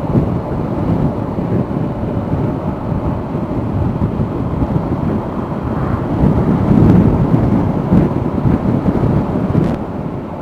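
Wind noise over the microphone of a motorcycle riding at road speed: a steady low rumble that swells about two-thirds of the way through.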